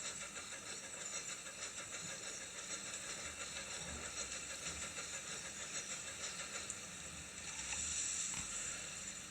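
A moving train's steady hissing rush, with a faint low rumble underneath.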